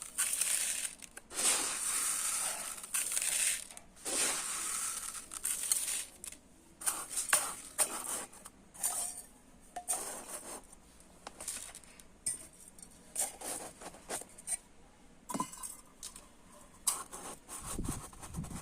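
Dry rice grains poured in three long rattling streams over the first few seconds, then scooped and let fall in many short trickles and clinks.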